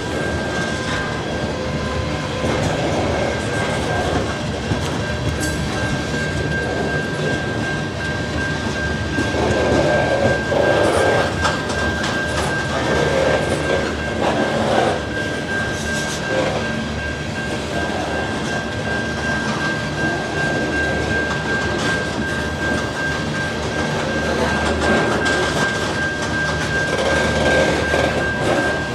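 Train rolling past at close range: wheels clicking and clunking over the rail joints, with a steady high whine.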